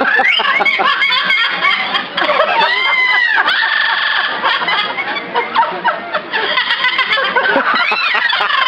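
Birds mimicking human laughter: a continuous run of laugh-like calls mixed with whistled notes that arch up and down in pitch.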